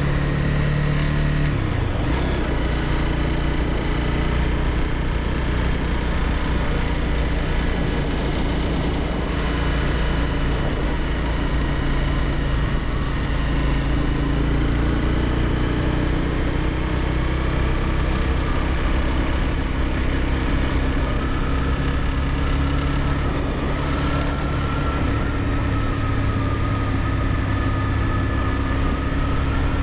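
Honda CBR300R's single-cylinder engine running steadily, with small shifts in pitch.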